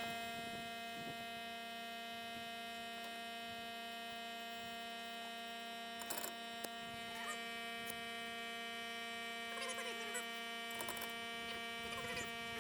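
A steady electric hum made of many evenly spaced tones, with a few faint clicks about halfway through.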